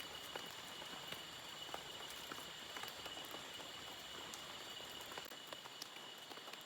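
Light rain with scattered drops ticking irregularly, over a steady high-pitched insect drone of forest crickets.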